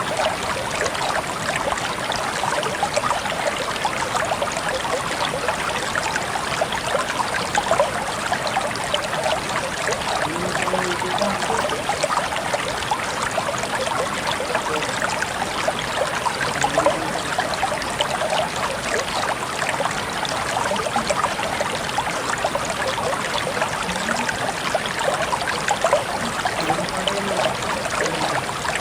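Water trickling steadily, with a dense patter of small drips and splashes and now and then a short low gurgle.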